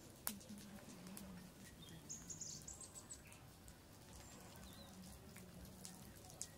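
Near silence: a bird chirps briefly about two seconds in, with a sharp click just after the start and a few faint ticks.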